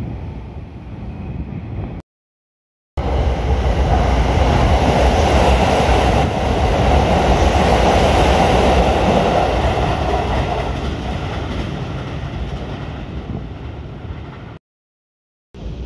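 Electric commuter train passing through the station. The wheels and motors rise to a loud rush about three seconds in, then fade away over the following ten seconds. The sound cuts out completely twice, for about a second each time.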